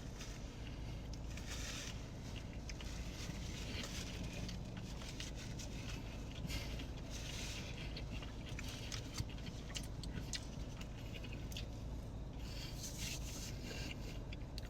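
Faint chewing of a mouthful of burger with thick crunchy pickle slices, with soft crunching noises now and then over a low steady hum.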